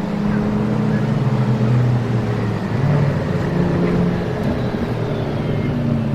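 Car engine running at low revs, its pitch drifting slightly down and up.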